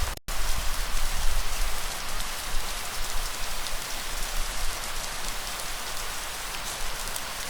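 Steady rainfall, a dense patter of drops with a low rumble underneath, broken by a split-second gap of silence near the start.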